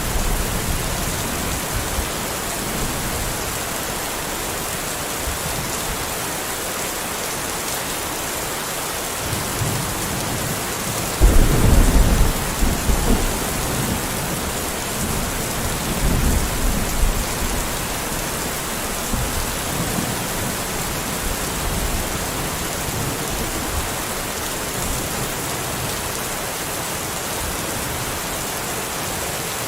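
Steady rain, with a low rumble of thunder starting about eleven seconds in and a weaker rumble a few seconds later.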